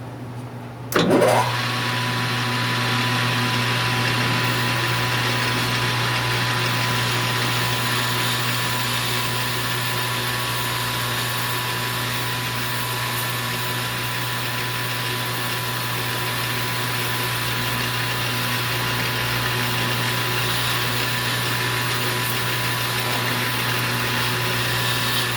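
Metal lathe switched on about a second in, spinning up and then running steadily while turning a bar of aluminium stock between centres: a steady motor hum with a constant whine and a hiss of cutting.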